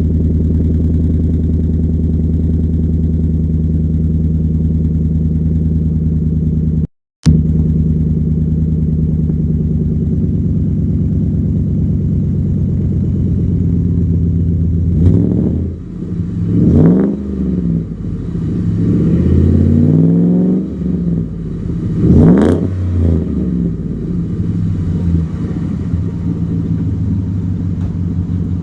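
Ford F-150's 5.0 V8 idling through a Roush cat-back exhaust, then revved four or five times in quick throttle blips from about halfway in, the pitch rising and falling each time, before it settles back to idle. The sound cuts out briefly about seven seconds in.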